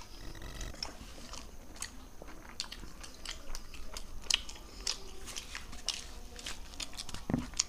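Two people chewing soft roti and palak paneer close to the microphone: irregular wet mouth clicks and smacks, with roti being torn by hand.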